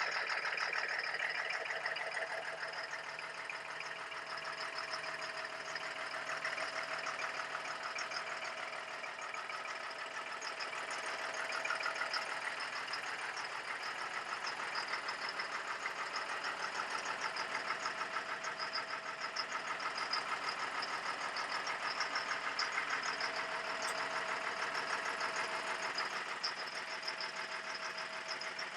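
Caterpillar 3116 turbo diesel, an inline six, in an M1078 LMTV cargo truck, idling steadily with an even diesel clatter.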